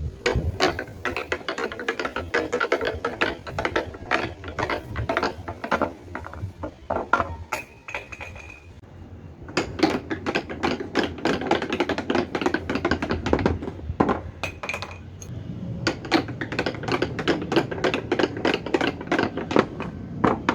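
Snooker balls rolling and clacking down a wooden track, in dense runs of rapid clicks over a low rolling rumble. Three such runs come one after another, with short lulls between.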